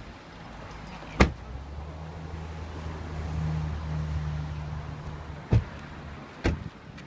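A motor vehicle's engine running with a low, steady hum from about a second in until about five and a half seconds. Three sharp knocks are the loudest sounds: about a second in, near five and a half seconds and near six and a half seconds.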